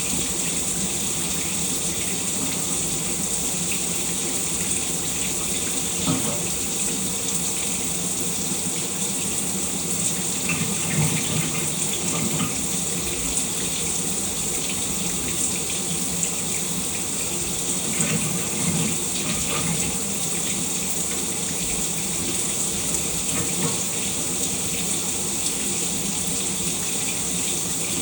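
Shower running: a steady hiss of water spray falling and splashing, with small swells in the splashing now and then.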